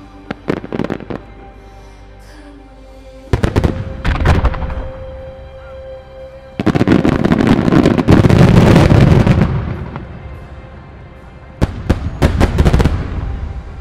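Wide starmine fireworks: aerial shells bursting in volleys of sharp bangs. There are a few near the start, a cluster about three seconds in, a dense rapid barrage from about seven to ten seconds that is the loudest part, and another volley near the end.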